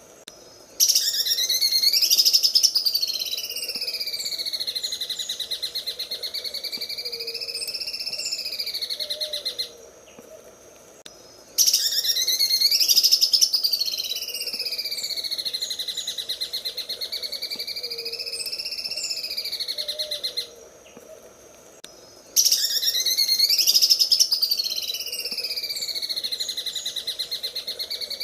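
Cucak ijo (green leafbird) singing its 'sewing machine' song: a very fast, machine-like chattering trill that wavers up and down in pitch, given as three long phrases of about nine seconds each, separated by short pauses.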